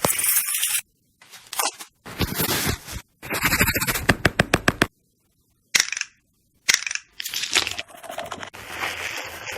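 Close-miked ASMR sounds of skincare and makeup handling, cut together in short segments: crunching and scraping, then a quick run of rapid clicks near the middle, with abrupt cuts to silence between segments.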